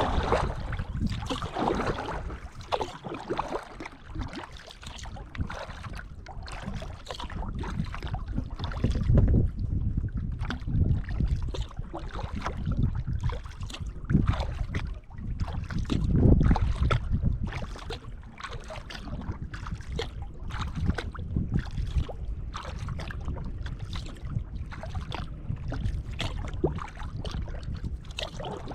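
Kayak paddle dipping and pulling through lake water, with repeated splashes and drips, over wind rumbling on the microphone in gusts.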